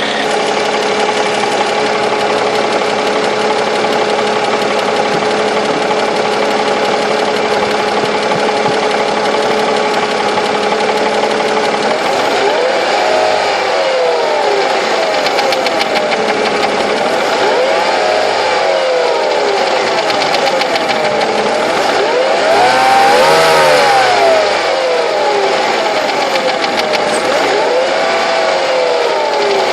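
Mercedes-Benz W211's M112 V6 petrol engine idling steadily, then revved up and let fall back four times, about every five seconds, the third rev the highest and loudest. The engine has a knock that the owner is recording.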